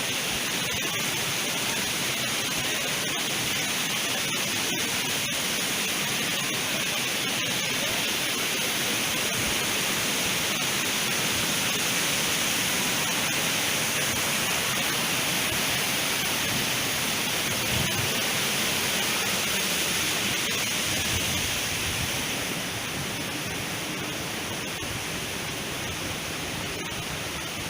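Steady rush of flowing water, a little quieter for the last few seconds.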